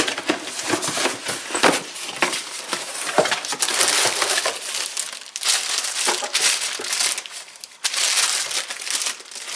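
Packaging being opened and rummaged through: cardboard and plastic wrapping crinkling and rustling in irregular bursts, with small clicks and knocks as parts are handled.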